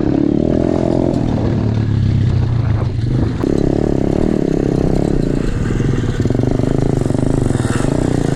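Small single-cylinder pit bike engine running under throttle, its pitch rising and falling several times as the rider opens and closes the throttle.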